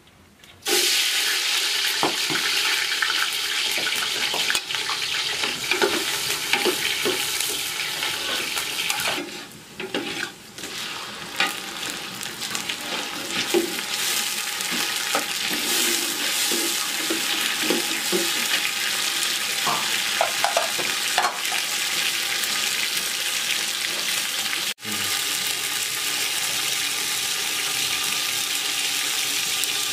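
Food frying and sizzling in a metal pot over a wood fire, with a ladle knocking and scraping against the pot as it is stirred. The sizzle starts suddenly about half a second in.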